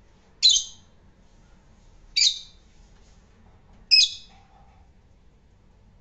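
A parrot giving three short, high calls, spaced about a second and a half to two seconds apart.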